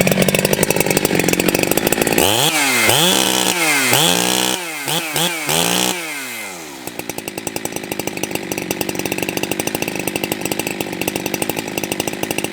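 Ported Jonsered 2165 two-stroke chainsaw held at high revs, then revved up and down several times, then dropping back to a lower, evenly pulsing idle. The owner takes it to be running rich on the high-speed circuit.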